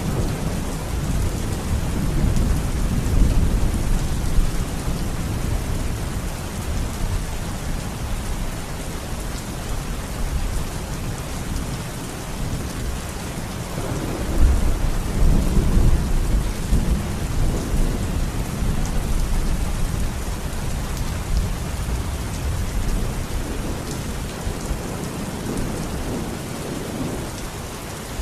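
Heavy rain falling steadily during a thunderstorm, with thunder rumbling low beneath it. The rumble is strongest at the start, swells again about halfway through, then fades away toward the end.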